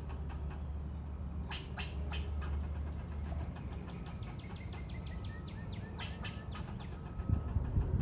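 Squirrel calling in a rapid run of short clicks and chirps, over a steady low rumble that fades about halfway through.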